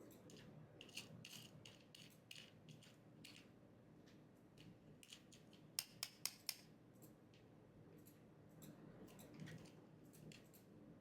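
Faint clicking and rustling from small objects being handled, with a quick run of four sharp clicks about six seconds in.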